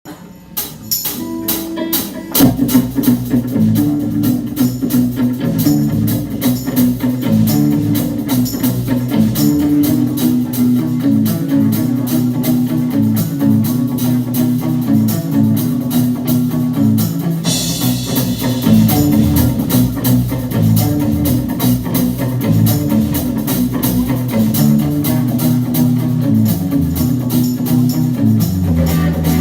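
Live rock band playing: electric guitars, bass and drum kit. A guitar opens alone, the full band comes in about two seconds in, and the cymbals turn brighter a little past the halfway point.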